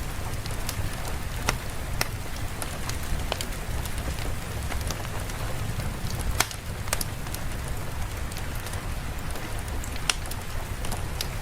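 Steady rain with a low rumble underneath and scattered sharp ticks and pops through it.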